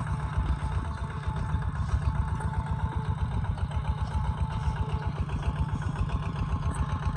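Kubota ZT140 single-cylinder diesel engine on a two-wheel tractor running steadily, with a fast, even chugging beat.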